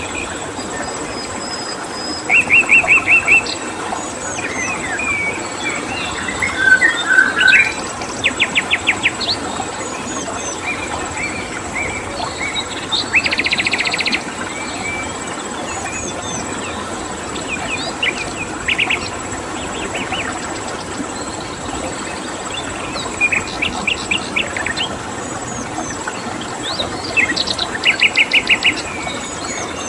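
Several wild birds chirping and calling, with repeated bursts of fast, evenly spaced trilled notes, loudest about two seconds in, around thirteen seconds and near the end. Under them run an even background hiss and a constant high insect drone.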